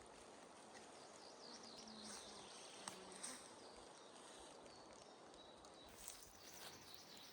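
Quiet forest ambience: faint, distant bird chirps and the brief buzz of a flying insect passing about two seconds in, with a light click or two.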